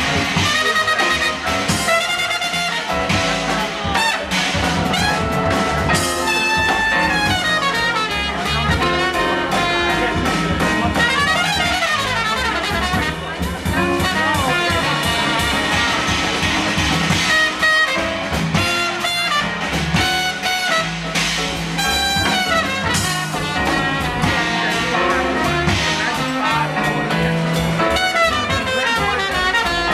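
Live jazz quintet playing: a horn carries the melodic line over piano, acoustic bass and drum kit.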